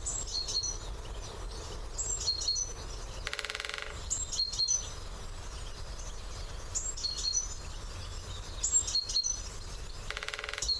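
Great spotted woodpecker drumming: two short, rapid drum rolls on wood, one about three seconds in and one near the end. Small birds sing and call throughout.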